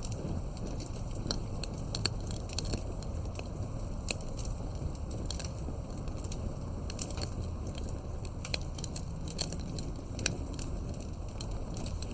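Campfire burning with irregular sharp crackles and pops over a steady low rumble of flame.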